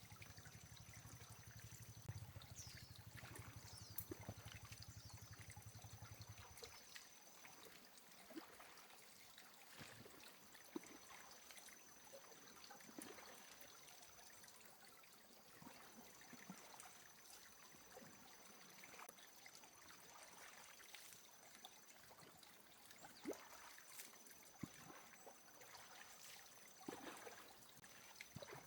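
Faint trickling, lapping water with scattered small knocks and ticks, heard at a very low level.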